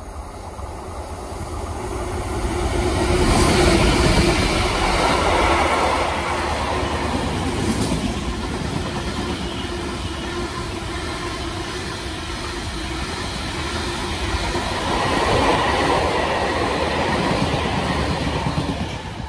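A Class 66 diesel freight locomotive passes, loudest a few seconds in. A long rake of ballast hopper wagons follows, rumbling over the rails, with a second swell of wheel noise later before the sound drops away near the end.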